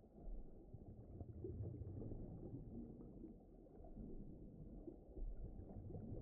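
Low, muffled rumbling ambience, all of it deep with no high sounds, swelling and fading gently: a deep-ocean background soundscape.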